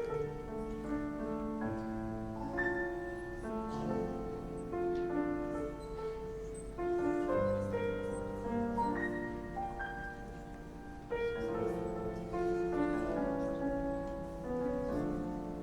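Grand piano and symphony orchestra playing together in a classical-style paraphrase on song themes, with sustained chords changing every second or so. The solo piano is not amplified, so it sits low in the mix against the orchestra.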